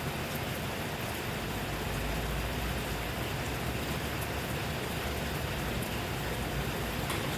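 Steady rain falling, an even hiss with scattered individual drops ticking, and a low rumble swelling briefly a couple of seconds in.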